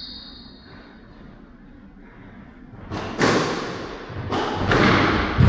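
Squash ball being struck by rackets and hitting the court walls at the start of a rally: after a quiet first few seconds, a series of sharp echoing impacts, about five in the last two and a half seconds.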